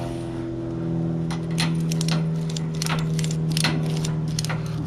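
Ratchet strap being cranked tight over a load of tool trays: a run of sharp metallic clicks starting about a second in, over a steady low hum.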